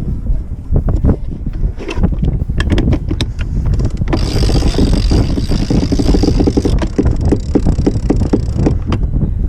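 Wind buffeting the microphone aboard a sailboat under way, with scattered clicks and knocks from the boat's gear. A steadier, higher whirring sound joins in for a couple of seconds about four seconds in.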